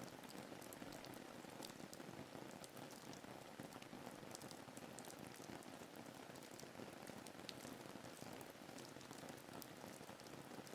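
Faint, steady rain ambience: an even hiss of falling rain with many small, scattered drop ticks.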